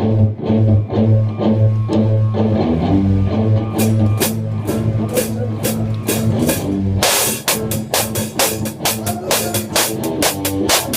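Rock band rehearsal: an electric bass plays a pulsing, repeated low note, and the drum kit comes in with a few hits about four seconds in, then full drumming with cymbals from about seven seconds.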